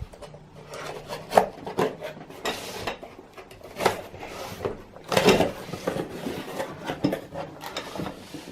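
A cardboard box and the packaged parts inside being handled and unpacked: irregular rustling and scraping with a few sharp knocks, the loudest about a second and a half in and again about five seconds in.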